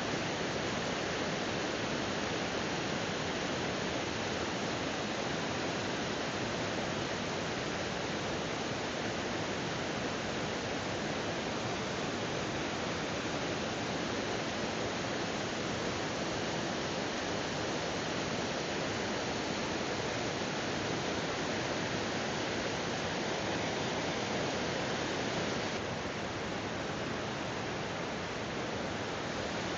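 Waterfall pouring, a dense, steady rush of falling water heard close by, dipping slightly in loudness near the end.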